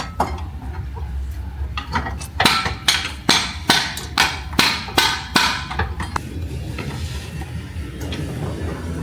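Hammering: a quick run of sharp knocks, about two or three a second, for roughly three and a half seconds, over a steady low hum.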